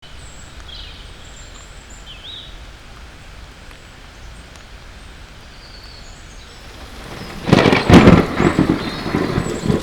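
Thunderstorm sound: a steady rain-like hiss with a few faint high chirps, then a loud thunderclap breaking about seven and a half seconds in and rumbling on.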